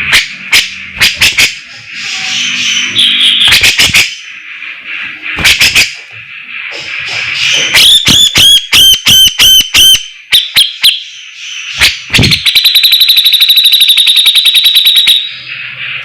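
Grey-cheeked bulbul (cucak jenggot) singing loudly. Sharp clicking notes come first, then a quick run of repeated rising-and-falling whistles about eight seconds in. Near the end comes a fast, even rattle of about ten strokes a second lasting a few seconds, the chattering 'besetan' that bird-keepers prize.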